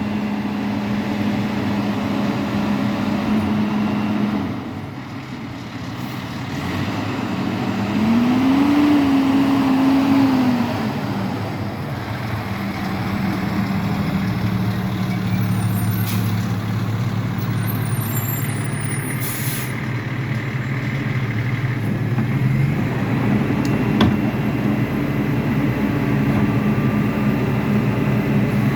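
Garbage truck's diesel engine running, its pitch rising and falling briefly between about eight and eleven seconds in. A short hiss comes about twenty seconds in.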